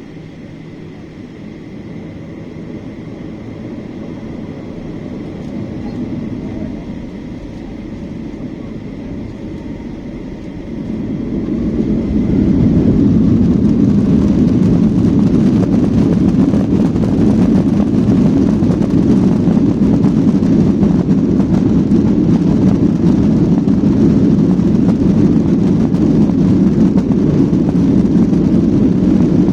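Airliner jet engines running with a steady whine that slowly grows, then about eleven seconds in spooling up sharply to take-off thrust. From there the engines run at a loud, steady level through the take-off roll.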